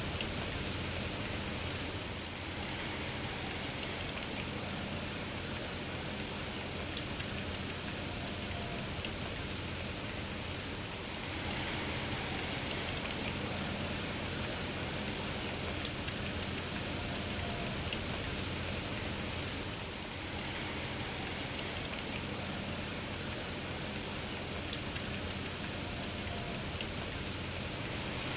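Steady rain falling, with a gentle rise and fall in intensity and three sharp ticks about nine seconds apart.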